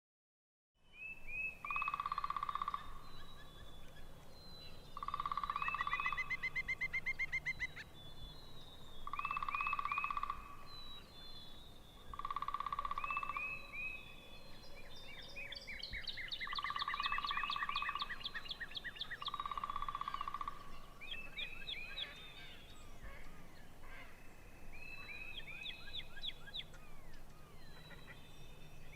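Birds calling: a loud call about a second long comes six times, a few seconds apart, over the quick, high chirps and trills of smaller birds.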